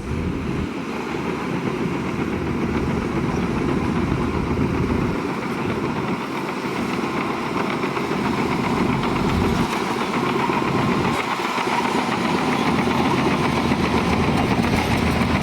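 Heavy diesel engine of an earthmoving machine running steadily, growing a little louder near the end.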